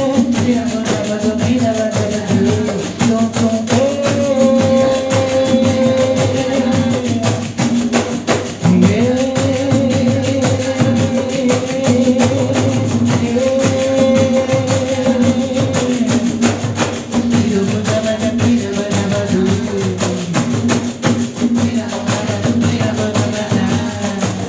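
Live music led by an ensemble of pandeiros (Brazilian frame drums with jingles) playing a dense, fast rhythm, with long held melodic notes sustained for several seconds over it.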